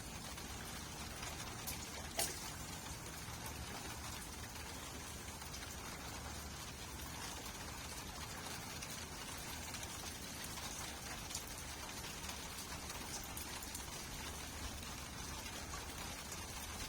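Steady rain falling, with scattered sharp drip impacts through the hiss and one louder tap about two seconds in.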